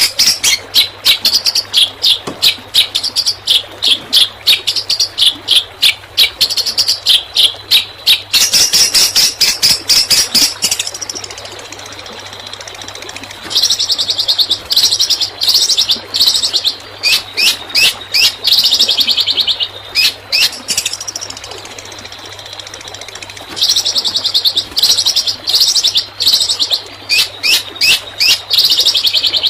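Songbird song used as masteran training material: fast runs of sharp, high, shot-like notes in the 'tembakan' style, broken by two lulls of a couple of seconds. A faint steady low hum runs underneath.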